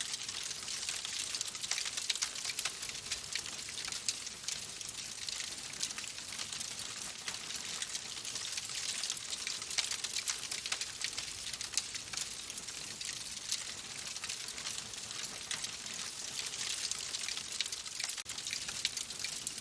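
Wood fire crackling in a fireplace: a steady hiss peppered with many small, sharp pops.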